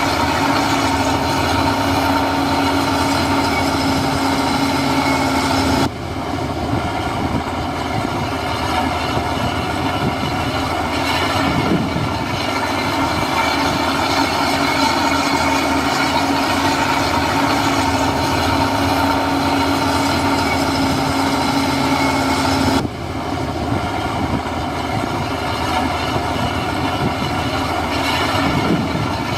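Diesel engine of heavy earthmoving machinery running steadily under load, with rumbling and clanking. The sound shifts abruptly about six seconds in and again near the end.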